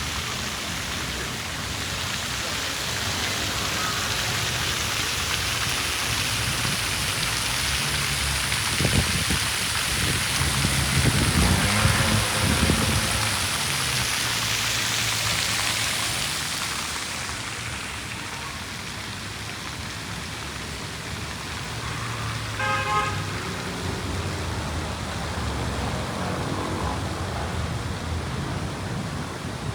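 City street traffic: cars passing with a steady hiss of tyres and a low engine rumble, which thins out a little past the halfway point. A short pulsing beep sounds about two-thirds of the way through.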